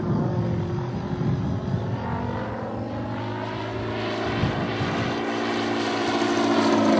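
Giant-scale RC plane's engine and propeller droning in flight, the pitch bending slowly and the sound growing louder toward the end as the plane comes closer.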